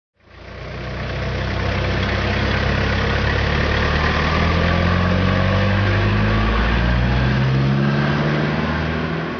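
Pickup truck engine running steadily, fading in at the start and out at the end.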